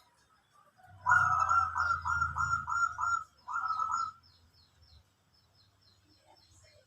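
A caged dove cooing: a quick run of about seven clipped coo notes, then a short second phrase a moment later. Faint high chirps of a small bird continue after it.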